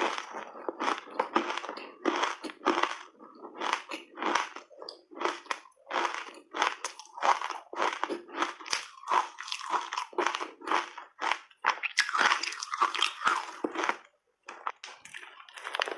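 Ice coated in matcha powder being bitten and chewed in big bites: a quick run of loud crunches, two or three a second, with a short pause near the end.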